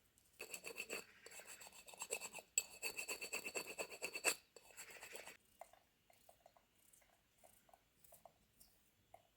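Rapid, rhythmic scraping strokes, several a second, with a short break midway; they stop about five seconds in.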